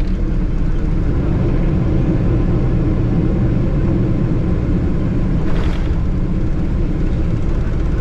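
Steady loud rumble inside the cabin of a Rolls-Royce-engined Boeing 777 on the runway just after landing: engine and rolling noise. There is one short, higher-pitched noise about five and a half seconds in.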